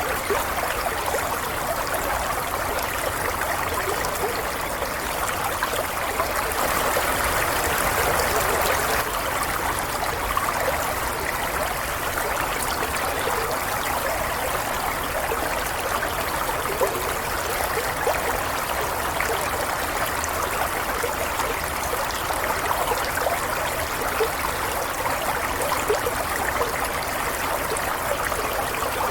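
Stream water flowing and trickling steadily, with a constant rush and small splashes.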